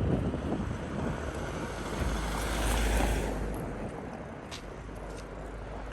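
Road noise from a car driving along a town street: a steady rumble and hiss that swells louder about two to three and a half seconds in, then eases off.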